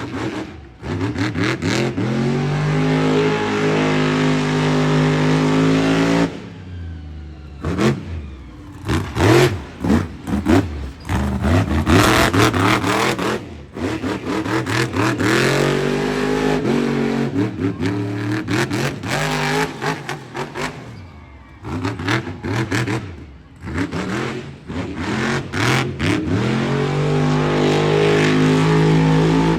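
Monster truck engine revving hard during a freestyle run: it climbs to a held high-rev scream, cuts off suddenly about six seconds in, then rises and drops again and again in short bursts, and climbs to a long held rev near the end.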